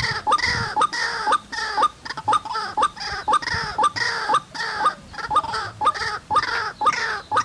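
White-breasted waterhen calling over and over, a rapid string of short, falling, harsh notes at about two a second, the kind of call used to lure the birds to a trap.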